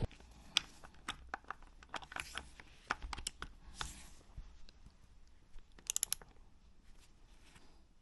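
Tools and small metal fork parts being handled: scattered light clicks and taps, with a quick run of clicks about six seconds in.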